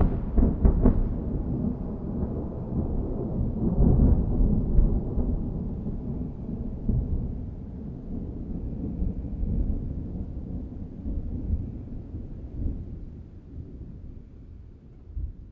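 Thunder: a long low rumble with a few sharp crackles in the first second, swelling again about four seconds in, then slowly dying away.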